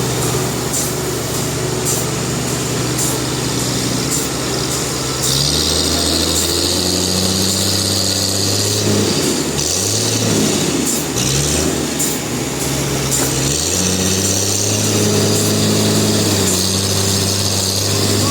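Sawmill machinery running under power, its motor note shifting up and down in steps several times over a steady high hiss, with faint regular ticking.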